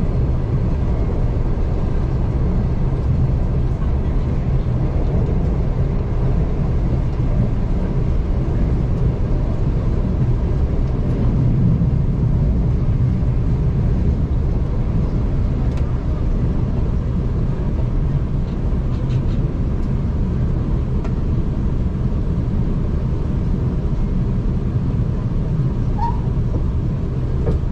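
A V/Line regional passenger train running along the line, heard from inside the carriage: a steady low rumble of wheels and running gear. A short high chirp comes near the end.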